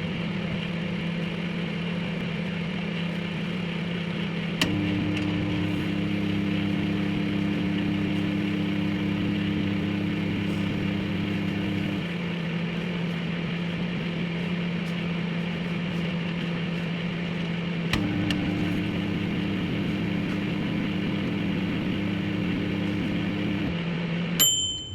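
Microwave oven running: a steady fan and turntable hum, with a heavier hum that cuts in with a click twice and runs for several seconds each time as the heating cycles on and off. A short high beep sounds near the end.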